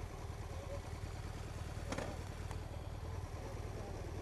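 Motorcycle engine running steadily, with a short click about two seconds in.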